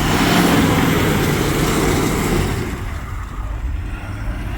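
GMC 2500 pickup truck's engine running under load as it drives through mud, with a loud rushing noise over it for the first two and a half seconds that then eases off.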